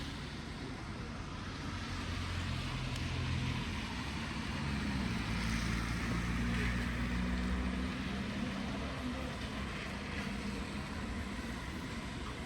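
A motor vehicle passes slowly with its engine running, loudest about halfway through, over a steady hiss of rain.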